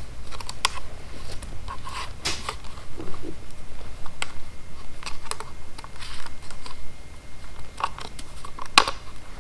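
Hands handling a small plastic cordless air compressor and its accessories: scattered light clicks and knocks, with one sharper click near the end.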